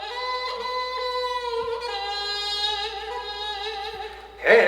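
Instrumental music: a melodic instrument plays a few slow, held notes with a slight waver. A sudden loud entry comes near the end.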